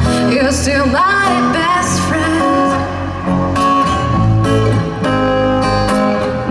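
Live band music: guitar and bass playing a song, with a wavering vocal-like melody line about a second in.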